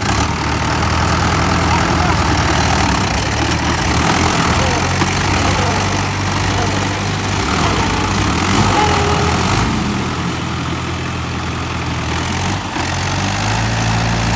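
Tractor's diesel engine running steadily, its note shifting slightly near the end.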